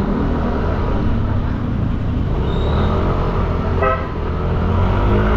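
Steady low rumble of a motorbike ride in city traffic, with one short horn toot about four seconds in.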